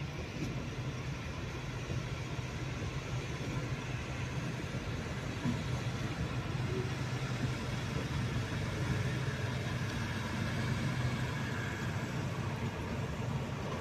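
A train standing and running steadily, giving a constant low hum with no sudden events.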